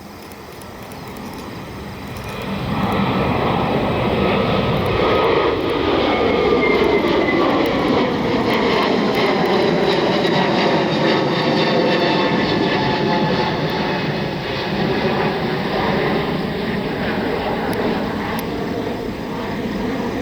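Jet airliner engines at takeoff, a Frontier Airlines Airbus: the noise swells over the first few seconds, then stays loud as the jet passes, with tones sliding down in pitch.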